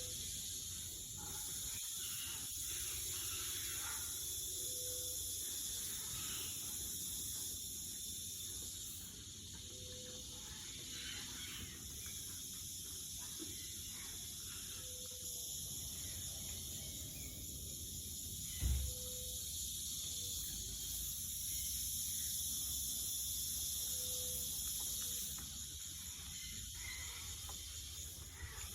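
Outdoor ambience with a steady high-pitched insect drone, a short low tone repeating about every five seconds, and a single thump about two-thirds of the way through.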